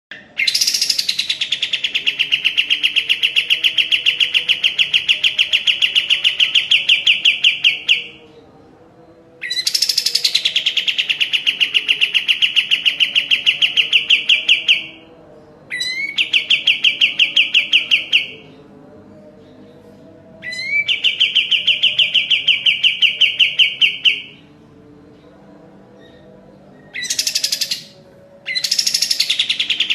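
Kapas tembak songbird singing long, rapid trills of evenly repeated notes. Each phrase opens with a high falling sweep and then holds at one steady pitch for several seconds, with short pauses between phrases.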